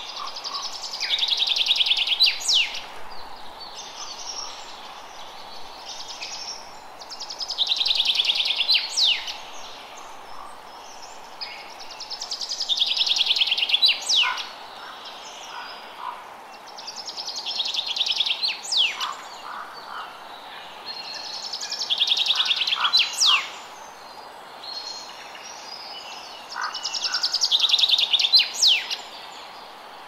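A songbird repeating the same song six times, about every five seconds: each a fast, high trill of roughly two seconds ending in a few sharp notes that slide steeply in pitch. Under it runs a steady hiss.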